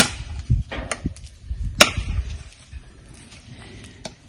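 Machete chopping into wood: a hard strike at the start and another almost two seconds later, with lighter knocks in between.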